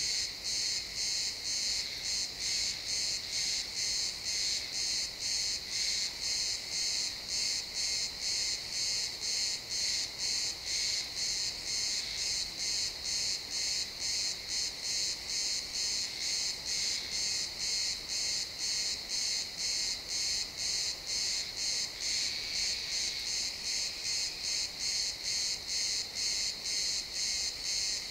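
Crickets chirping in a dense, steady chorus, a high pulsing trill at about two to three pulses a second.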